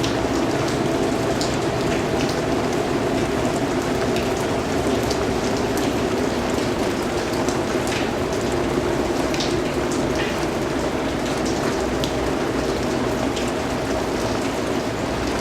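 Steady rain falling, a constant wash with individual drops ticking through it.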